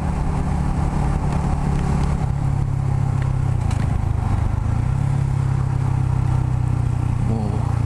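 Yamaha R125's 125 cc single-cylinder four-stroke engine running steadily while riding, its note dropping a little about two seconds in and then holding.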